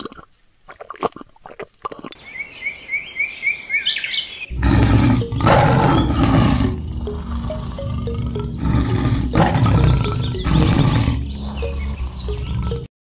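Tiger roar sound effect: several loud roars in a row beginning about four and a half seconds in and cutting off suddenly near the end. Before the roars, birds chirp in quick repeated calls.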